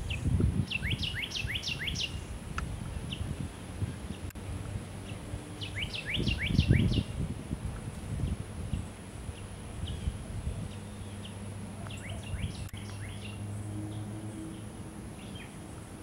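A songbird singing three times, about six seconds apart, each phrase a quick run of six to eight sharp down-slurred notes. Low rumbling noise on the microphone is loudest at the start and around the second phrase.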